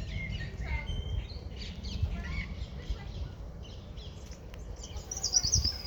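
Small birds chirping and calling with short scattered notes, a louder run of high chirps near the end, over a steady low outdoor rumble.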